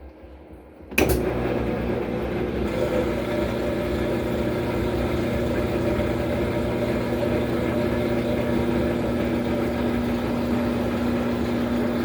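Washing machine kicking on about a second in, then running steadily with a loud motor hum.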